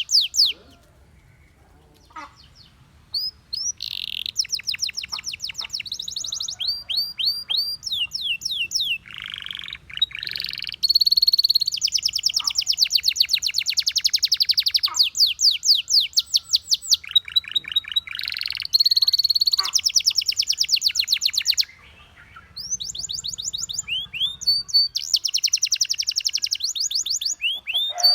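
Canary singing in fast trills: long runs of rapidly repeated high notes that change pattern from roll to roll. There is a pause of about two seconds near the start and a brief one later on.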